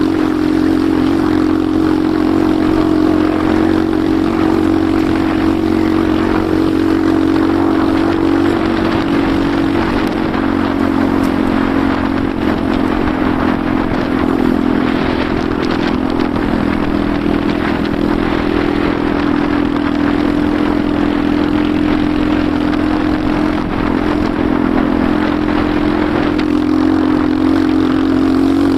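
Enduro motorcycle engine running under way at fairly steady revs, its pitch shifting only a little.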